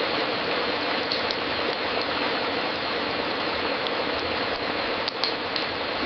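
Wood fire crackling in a fireplace: a steady hiss with scattered sharp pops, a few close together about five seconds in.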